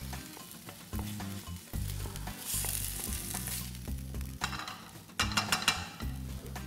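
Chunks of red snapper sizzling as they fry in a pan, with a utensil stirring and scraping among them, busiest about two-thirds of the way through.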